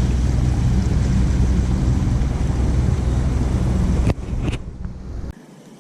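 Boat motor running under way, a loud steady hum with wind and water noise over it. It cuts off abruptly about four seconds in, and the sound falls to a much quieter level a second later.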